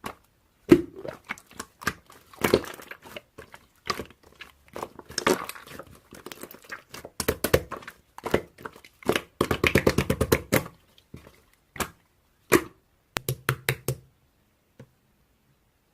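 Slime being squeezed and pressed by hand, giving irregular sticky clicks and air-bubble pops, with a quick flurry of pops about two-thirds of the way through before it goes quiet near the end.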